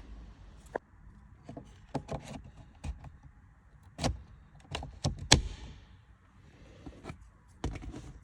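Scattered clicks, taps and knocks of parts being handled inside a car, the loudest about four and five seconds in.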